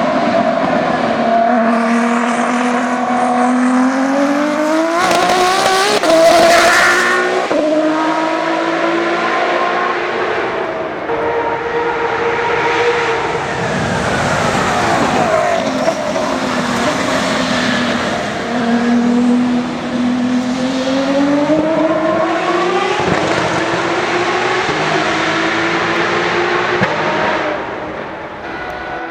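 Aston Martin AMR-One LMP1 race car's turbocharged inline-six engine at racing speed. The engine note climbs in pitch and drops back several times as it accelerates and changes gear, with a rush of noise as the car passes.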